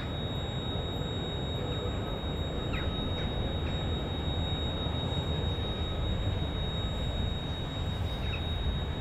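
Steady low rumble of an approaching train hauled by an EP09 electric locomotive, growing slightly louder as it nears.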